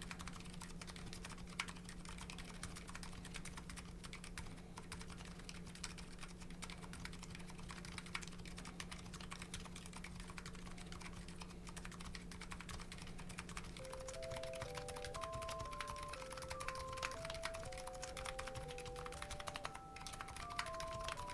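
Continuous fast typing on a Nuxros Kraze custom keyboard with MetaKeebs MetaPulse electrocapacitive switches: a dense, even patter of keystroke clicks. About two-thirds of the way in, a steady low hum stops and a simple beeping melody of single notes starts playing over the typing.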